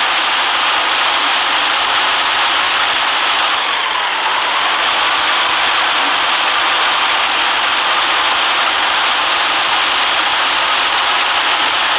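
City bus on the move, heard from inside: a steady mix of engine and road noise that doesn't change much.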